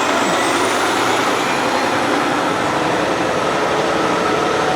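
Semi-truck running steadily close by, a constant mechanical rumble and hiss.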